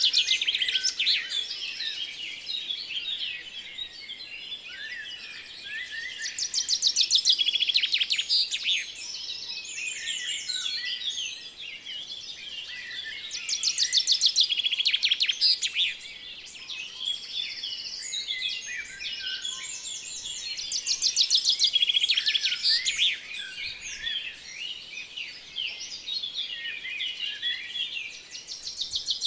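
A dense chorus of small birds chirping and trilling, with a louder rapid trill about every seven seconds, as in a looped birdsong recording.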